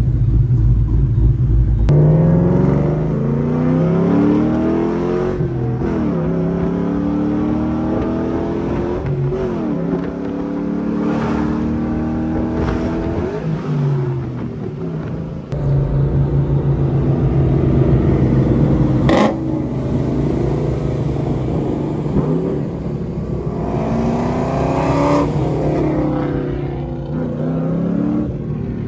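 Tuned, cammed 1999 Mustang Cobra's 4.6-litre DOHC V8 being revved over and over, the pitch climbing and falling back each time, then settling to a steady run before more revs near the end. A single sharp click about two-thirds of the way through.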